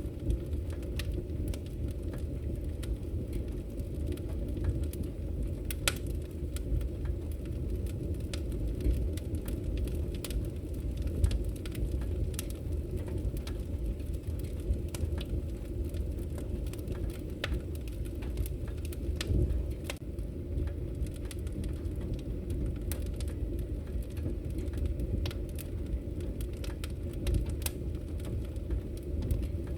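Wood fire burning in a fireplace: a steady low rush of flame with frequent, irregular sharp crackles and pops from the logs.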